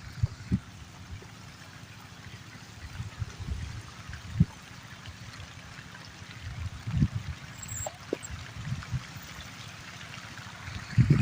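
Water trickling and lapping, with scattered soft low knocks, the loudest about four and a half seconds in and a few more around seven seconds.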